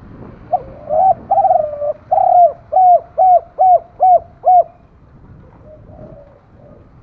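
Spotted dove cooing: one phrase that opens with a short note and a few longer, drawn-out coos, then runs into about six short, quick notes, each dipping at the end. A fainter coo follows near the end.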